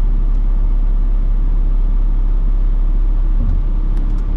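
A car's engine and road noise heard inside the cabin: a steady low rumble, with a few faint clicks near the end.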